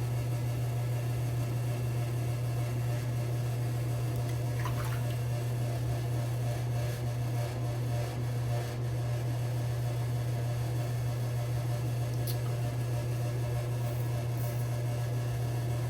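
A steady low electrical or fan-like hum, with a few faint short sounds over it about five seconds in and again near the end.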